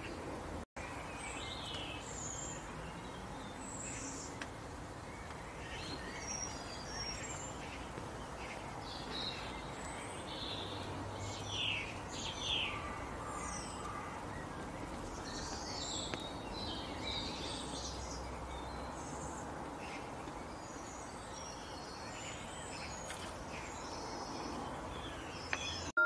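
Faint outdoor ambience with small birds chirping: short, high tweets scattered throughout over a steady background hiss.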